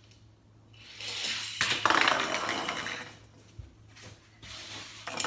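A die-cast toy car rolling fast down a plastic toy race track: a rattling rush that builds about a second in, is loudest around two seconds and fades out by about three seconds, with a sharp clatter near the end.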